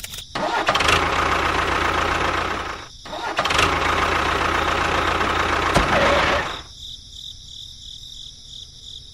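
An engine-like motor sound in two runs of about two and a half and three seconds, with a brief cut between them. It stops about two-thirds of the way in, leaving a quieter, steady high pulsing tone.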